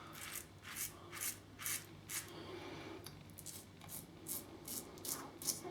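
Double-edge safety razor with a Gillette Silver Blue blade scraping through lathered stubble in short, crisp strokes, about two to three a second, with a brief pause a little before the middle.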